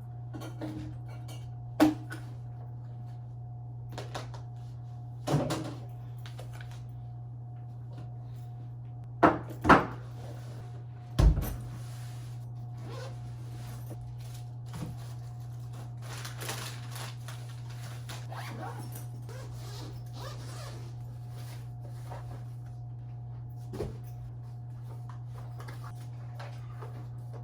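Steady low hum with a handful of separate knocks and thuds, like doors or cupboards being handled; the loudest three come close together about ten seconds in.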